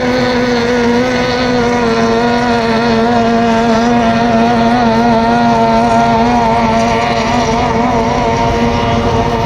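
Racing powerboat's outboard engine being warmed up before a race, running steadily at constant revs, its pitch wavering slightly midway.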